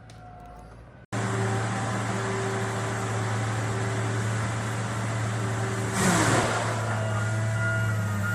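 Forestry harvester's diesel engine running steadily at a high, even speed, coming in abruptly about a second in. A brief louder rush of noise comes about six seconds in.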